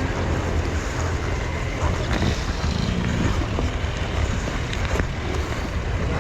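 Enduro motorcycle engine running under a steady low rumble of wind noise.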